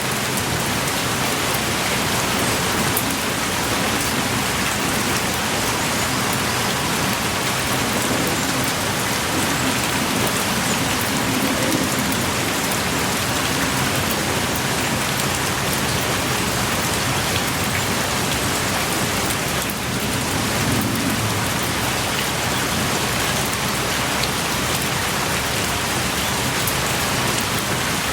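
Heavy, steady rain pouring down, with a dense hiss and scattered close drips, heard from the shelter of a small cave.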